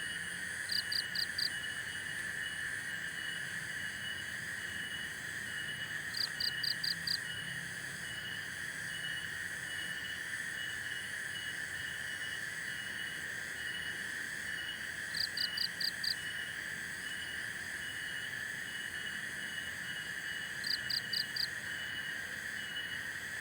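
A forest night chorus of insects: a steady high buzz and a quick, evenly repeating chirp. Four times, about a second in, around six seconds in, around fifteen seconds in and near the end, a higher caller gives a short burst of four rapid chirps.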